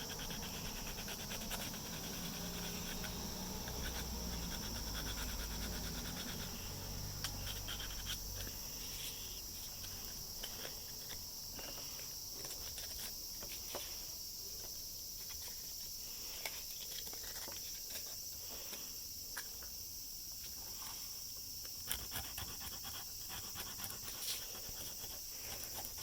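180-grit sandpaper rubbed by hand over 3D-pen plastic on an eyeglass frame, smoothing the repair. It makes irregular short scratchy strokes over a steady high-pitched hiss.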